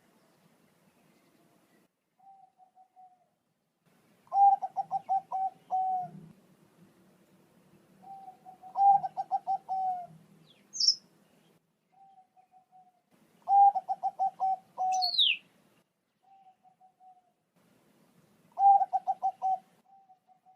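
Perkutut bangkok (zebra dove) cooing: four phrases of quick staccato coos, each about a second and a half long and about five seconds apart, with fainter short coos between them. Another bird gives two brief high, falling chirps in the middle.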